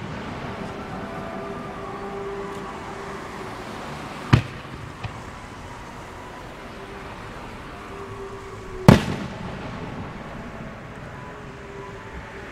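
Japanese No. 4 aerial firework shells bursting overhead: two sharp booms about four and a half seconds apart, each with a short echoing tail, and a small pop just after the first.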